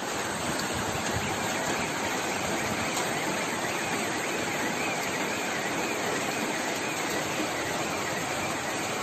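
Heavy rain and running water: a steady, even rushing hiss.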